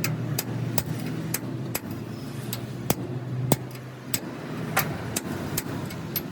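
A run of sharp, short knocks, roughly one or two a second and unevenly spaced, over the low steady hum of a running engine.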